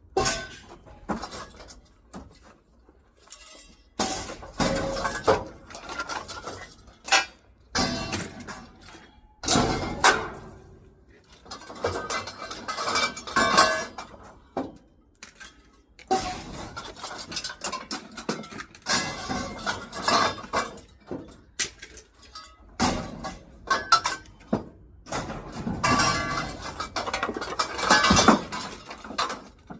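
Scrap metal clanking and rattling as pieces are handled and tossed: an irregular run of clanks and clatters, some ringing after the hit.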